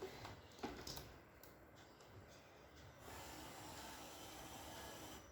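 Near silence: a few faint clicks in the first second or so, then a faint steady hiss in the second half.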